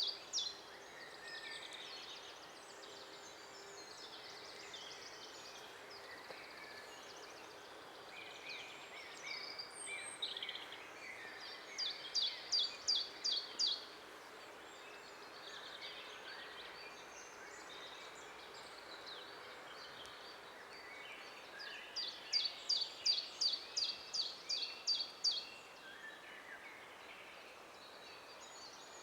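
Songbirds singing in a forest over a steady faint hiss. One bird sings a quick run of about eight to twelve sharp, high, evenly spaced notes twice, once about twelve seconds in and again near the end, while softer chirps and calls from other birds fill the gaps.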